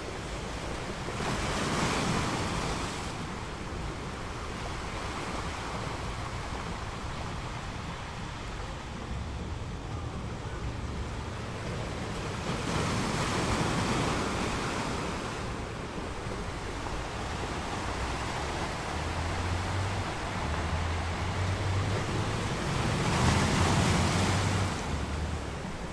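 Ocean surf: waves washing in and drawing back, swelling three times about ten seconds apart, with a low rumble under the last swell.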